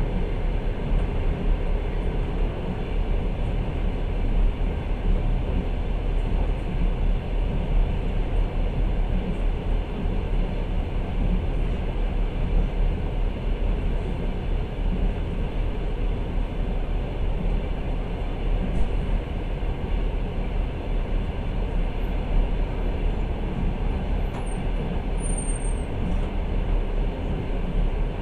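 Steady rumble of a passenger train running along the track, heard from inside the carriage.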